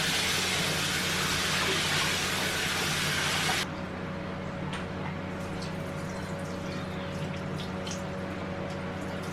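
Water running, as from a tap, that shuts off suddenly about three and a half seconds in, leaving light clinks over a steady low hum.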